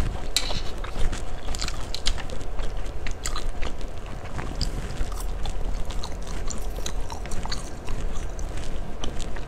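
Chewing fried Aceh noodles (mie Aceh goreng), with wet mouth sounds and many small irregular clicks and smacks.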